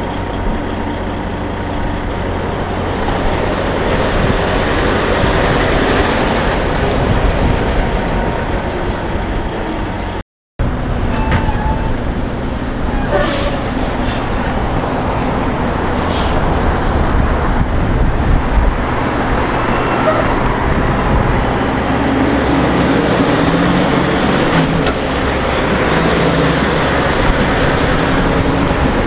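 Semi trucks (a Freightliner Cascadia, then a Volvo VNL760 and another Cascadia) driving past in roadway traffic: steady diesel engine and tyre noise. The sound cuts out briefly about ten seconds in.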